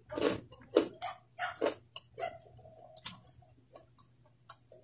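Close-up chewing of crunchy chips with rice: an irregular string of sharp crunches and mouth clicks, thickest in the first two seconds.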